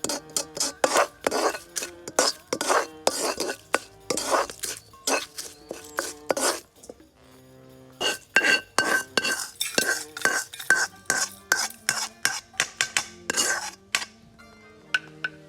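Metal utensils repeatedly clinking and scraping against cookware, as in stirring or mixing, pausing briefly near the middle, over soft background music.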